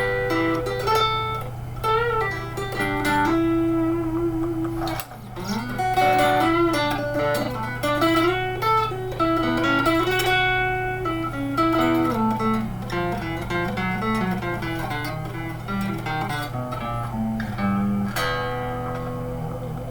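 1987 Fender electric guitar, freshly strung with 009–042 super light strings, played through an old amplifier: a melody of single notes with some bent notes, over a steady low hum.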